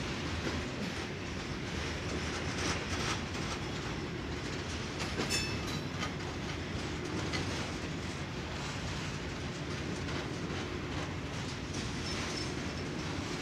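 Union Pacific freight train cars rolling past with a steady rumble and clicking of wheels over rail joints, and a brief high wheel squeal about five seconds in.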